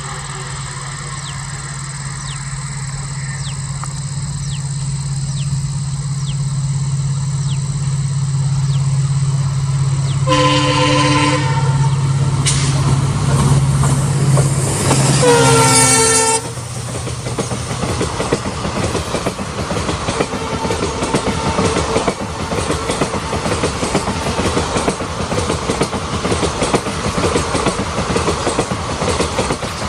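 Diesel locomotive approaching with a steady engine drone that grows louder, sounding its horn twice: a short blast about ten seconds in, then a longer one about fifteen seconds in whose pitch drops as it passes. The engine note then cuts off and the train's coaches or wagons clatter by over the rail joints.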